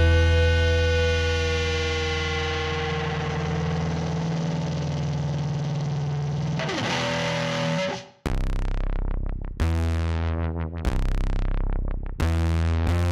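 Rock music on distorted electric guitar: one heavy chord rings out and slowly fades, then about eight seconds in it breaks into a run of hard chords that stop and start with short gaps between them.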